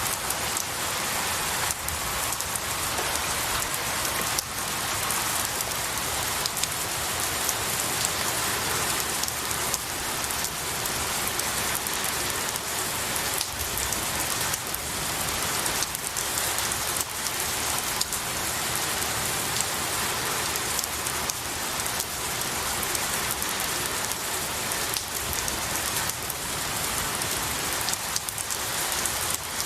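Steady rain falling on pine needles and trees, an even hiss of rainfall with many separate drop hits ticking through it.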